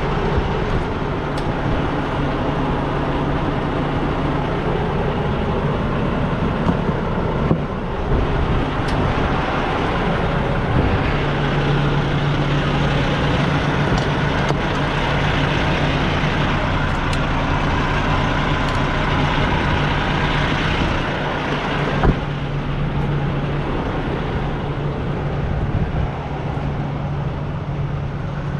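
Diesel semi-truck engine running steadily with a constant low hum and wide mechanical noise, with a few faint clicks over it.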